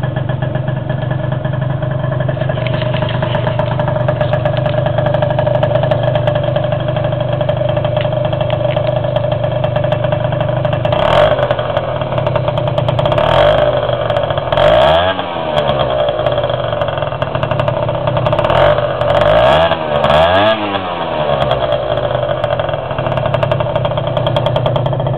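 Puch Zip scooter engine and exhaust idling steadily, then revved in a series of short blips about halfway through, the pitch rising and falling with each, before it drops back to idle.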